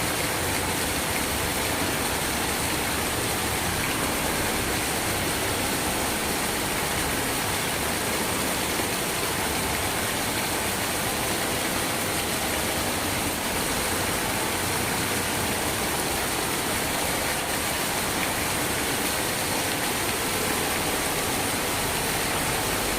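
Steady rain, a constant even hiss that does not rise or fall.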